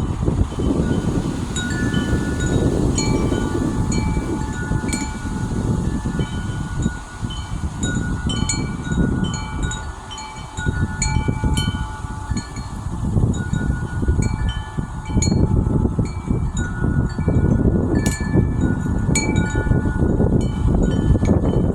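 Wind chime ringing irregularly in gusty wind, several pitched tones struck at random and overlapping, over wind rumbling on the microphone that rises and falls.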